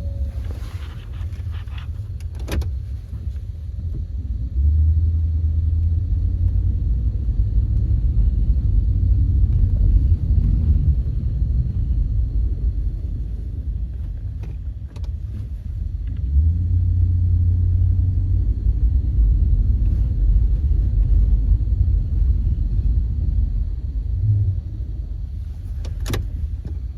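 Ford F-150 pickup's engine running with a low rumble that swells for a few seconds twice, about five and sixteen seconds in.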